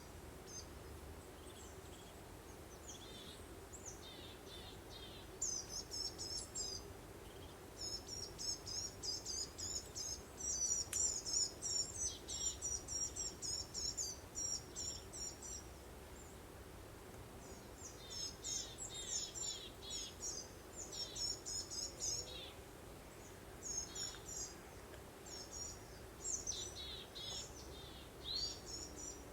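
A songbird singing phrases of rapid, high, repeated chirps, with the busiest stretch in the middle and more phrases toward the end. A steady, faint background hum and hiss runs underneath.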